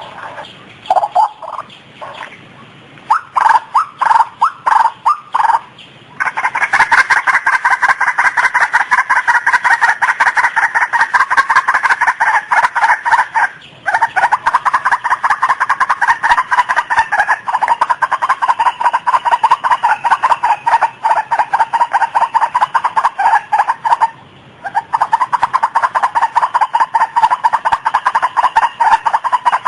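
White-breasted waterhen calling: a few short call bursts, then from about six seconds in a loud, fast, continuous run of repeated notes, broken by two brief pauses.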